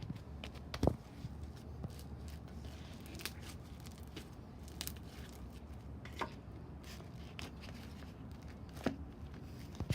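Slime being handled: scattered small clicks and snaps, the loudest about a second in and near the end, over a low steady hum.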